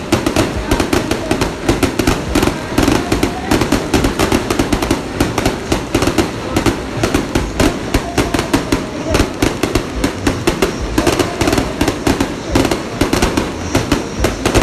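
Firecrackers going off in a rapid, unbroken crackle of many bangs a second.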